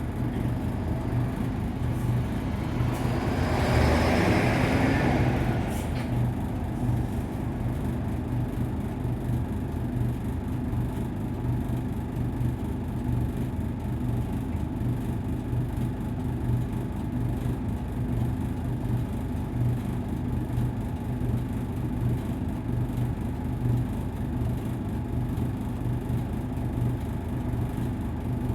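Nissan Diesel KC-UA460LSN city bus running on the road, its diesel engine giving a steady low drone. A louder rushing swell about three to five seconds in.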